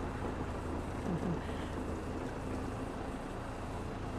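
A sailing schooner's auxiliary engine running steadily as the boat motors away from the dock, a low, even hum.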